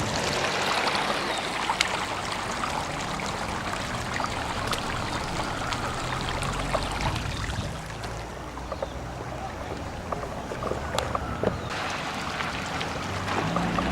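Water flowing and trickling along the street, floodwater brought up by earthquake liquefaction, with scattered small splashes and clicks.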